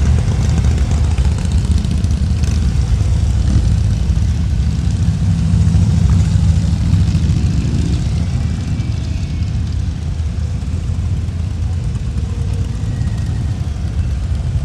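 Motorcycle under way, a steady engine drone mixed with low wind rumble.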